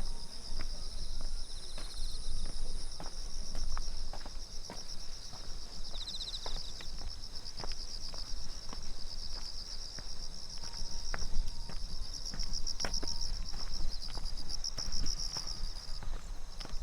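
Footsteps of a person walking at an even pace, about two steps a second, over steady high-pitched insect chirping in the vegetation.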